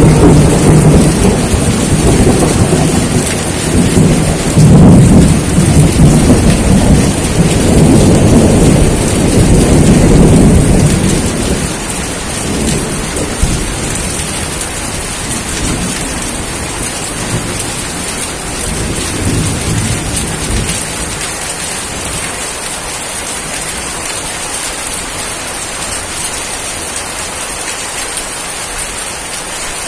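Steady heavy rainfall with a long roll of thunder that rumbles through the first ten seconds or so and dies away, leaving the rain alone.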